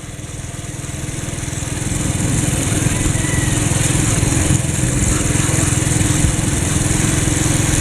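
A petrol-engined bush trimmer running steadily while cutting a hedge. It grows louder over the first couple of seconds, then holds at a steady drone.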